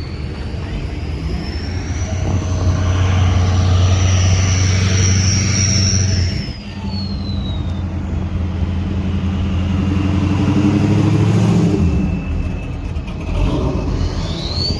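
A car engine revving in two surges, the first lasting several seconds and the second near the end, with a high whine that climbs and then falls away.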